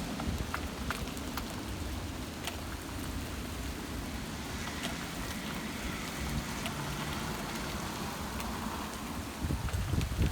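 Heavy rain pouring steadily with small hail mixed in: scattered sharp ticks of hailstones striking surfaces stand out over the hiss of the rain, with a low rumble underneath.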